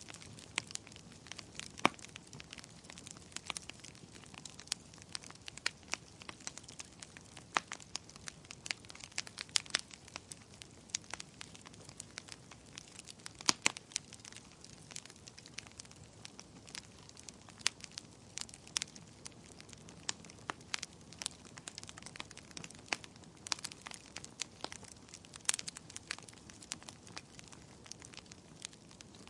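Bonfire crackling: a steady run of irregular sharp pops and snaps, a few louder than the rest, over a low steady hiss.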